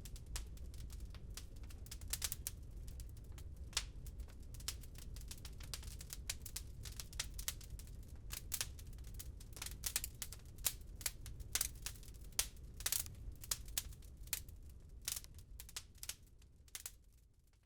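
Wood fire crackling in a fireplace: irregular sharp pops and snaps over a low steady rumble, fading out near the end.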